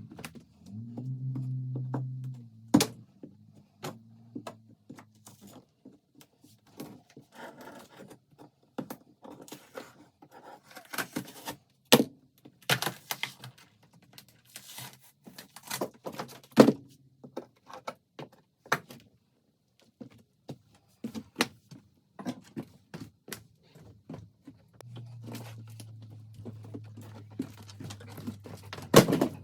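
Irregular knocks, clunks and light scrapes of hand work with tools and materials in a small room, some strikes louder than others. A low steady hum sounds near the start and again in the last few seconds.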